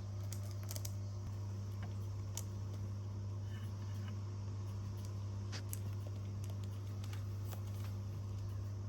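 A steady low hum, with scattered faint clicks and light scratches.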